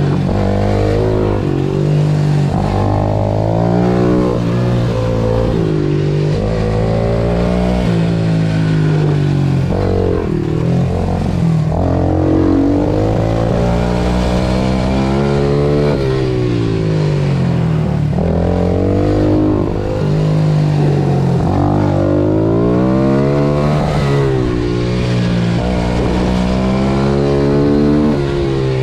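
Pit bike engine revving hard around a track. Its pitch climbs under acceleration and falls back again and again, every few seconds, as it goes through the gears and slows for corners.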